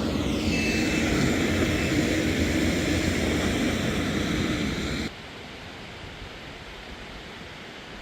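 Heavy street-clearing machinery running, with its reversing alarm beeping in the first two seconds. The engine noise cuts off abruptly about five seconds in, leaving a faint steady outdoor hiss.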